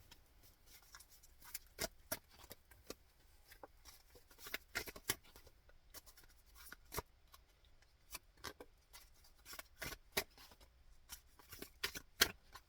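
Tarot cards being shuffled and handled: a run of irregular light snaps and clicks as the cards are cut and flicked together, busier near the end.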